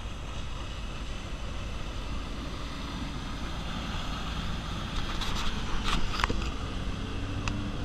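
Sailboat's engine running steadily while under way, with wind on the microphone and water noise. A few sharp clicks come about five to six seconds in.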